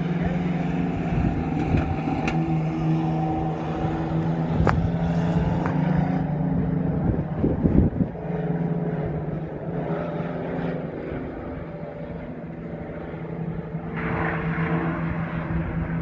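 Mini truck race engines running as the trucks circle the track, a steady drone with a louder, rougher surge about halfway through and a rise again near the end.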